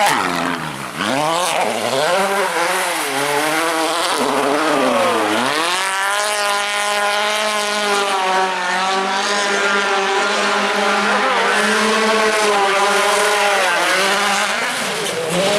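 Rally car engine at full throttle, revs rising and falling through gear changes for the first few seconds, then held high and fairly steady flat out for most of the rest before dropping off near the end.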